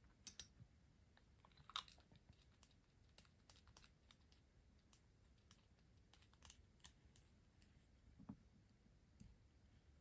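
Faint, scattered small clicks and taps of stationery items and their packaging being handled, with a sharper click about two seconds in and a soft thump about eight seconds in.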